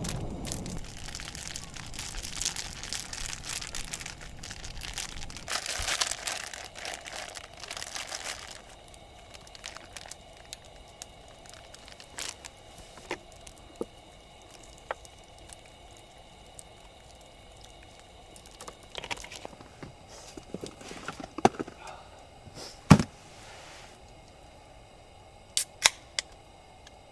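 Crinkling and rustling of wrapping being handled for about the first eight seconds, then scattered light clicks and knocks, the loudest a sharp knock near the end.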